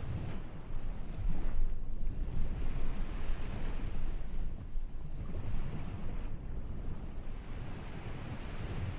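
Ocean surf washing onto the shore in repeated swelling and fading surges, over a steady low rumble.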